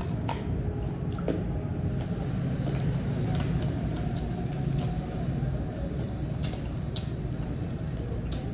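Eating sounds of crisp green mango slices: a few sharp crunches and mouth clicks spread over several seconds, above a steady low background rumble.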